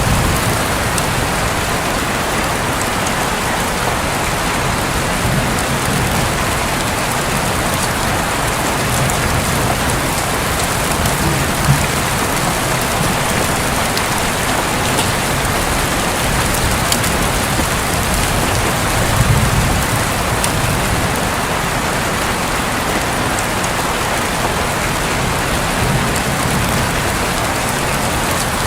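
Steady rain falling on a roof, with a few low rumbles of thunder.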